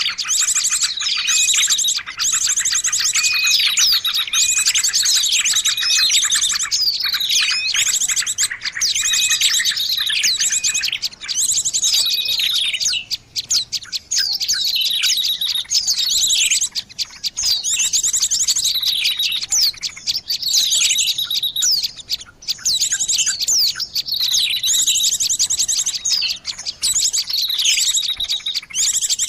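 Bird-luring call: dense, continuous high chirping and fast trilling of birds, with a few brief gaps.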